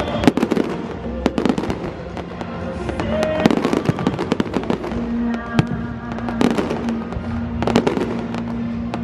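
Firework display: repeated sharp bangs and crackling from bursting shells, over music playing along with the show.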